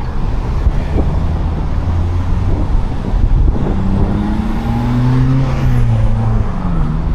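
Road traffic rumbling steadily, with one motor vehicle's engine rising in pitch from about four seconds in and then dropping away near the end as it passes.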